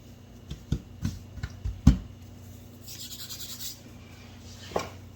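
Kitchen work surface being handled: several light knocks and thumps, the loudest about two seconds in, then a brief rough scraping, and one more knock near the end.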